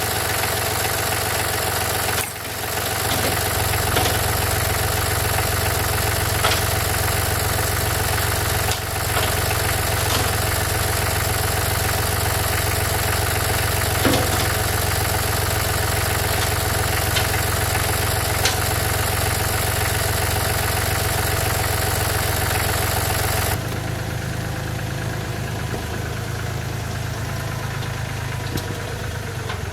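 Tractor engine running steadily at a low idle, with a few light clinks over it. About 24 seconds in, the sound becomes duller and slightly quieter.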